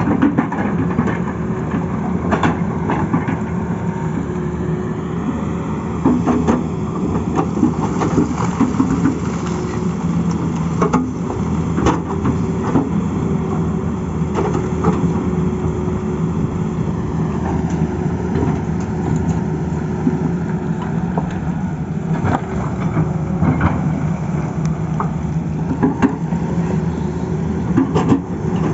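Tata Hitachi excavator's diesel engine running steadily, with frequent short knocks and clanks throughout.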